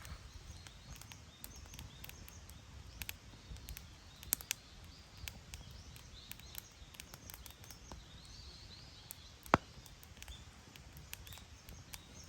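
Wood campfire crackling, with irregular sharp pops and snaps over a low steady rumble, and one loud pop about nine and a half seconds in.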